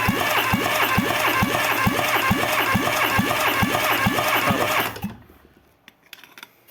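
Renault K4M 760 1.6 16-valve petrol engine turning over on its starter motor with an even, regular pulsing beat, cranked as for a compression test; the cranking cuts off about five seconds in.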